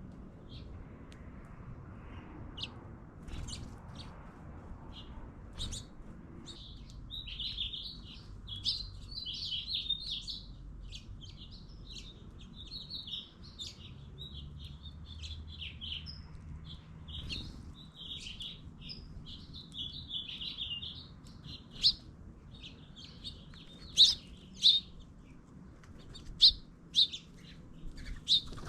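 Small birds chirping and twittering: scattered short chirps, a busy run of continuous twittering through the middle, and several sharp, loud chirps near the end.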